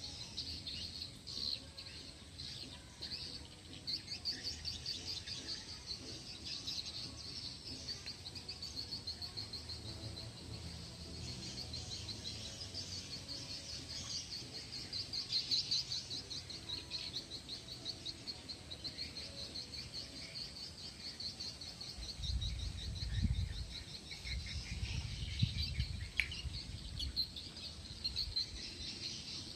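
Continuous high-pitched, rapid chirping of birds, with a few low rumbles about three quarters of the way in.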